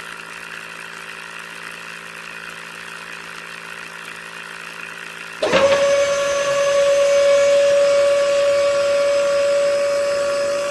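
A small electric motor hums faintly and steadily. About halfway through, a louder motor starts up suddenly and runs at a steady high-pitched whine.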